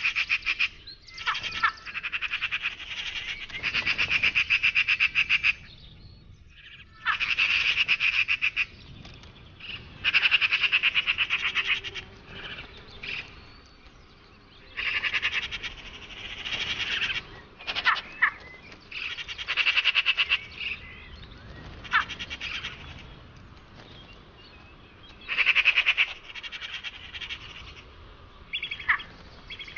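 Magpies chattering: harsh, rapid rattling calls in about a dozen bursts of one to two seconds each, with a few short, sharp single notes in the gaps.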